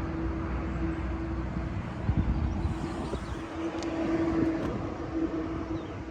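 2024 BMW M4 Competition's twin-turbo inline-six idling steadily, a low rumble with a constant hum. There is a brief louder knock about two seconds in.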